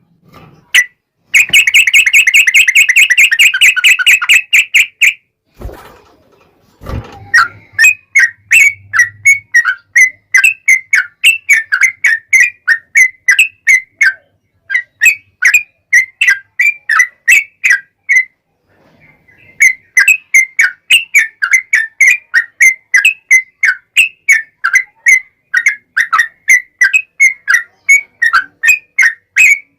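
Yellow-vented bulbul (trucukan) in full song, loud and clear: a fast dense trill, then long runs of quick chirped notes, about three to four a second, with a short break about two-thirds of the way through. Two brief low thumps come just after the trill.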